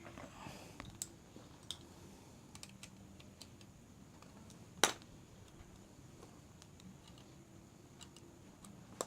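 Scattered light clicks and taps of small metal parts and a hand tool while a sewing-machine motor is being taken apart, with one sharper click about five seconds in and another at the very end.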